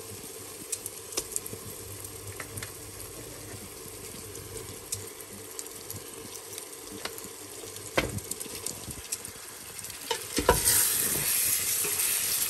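Onion, tomato and spice masala frying in a steel pot, sizzling steadily while a wooden spoon stirs and knocks against the pot. The sizzling grows much louder about ten seconds in.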